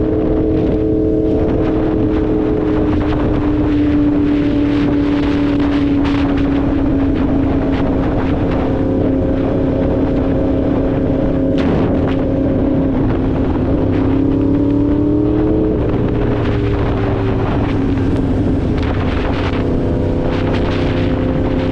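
2016 Yamaha R1's crossplane inline-four engine under way at a fairly steady speed, its pitch drifting slowly; about three-quarters through it rises briefly and then drops suddenly. Wind rushes over the microphone throughout.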